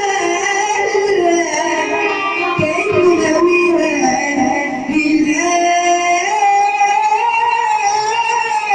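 A woman singing a melody over musical accompaniment, holding long notes with bends and ornaments between them.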